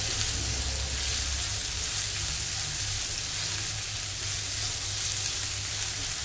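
Chopped onion sizzling in hot oil in a nonstick frying pan, stirred with a silicone spatula; a steady hiss throughout.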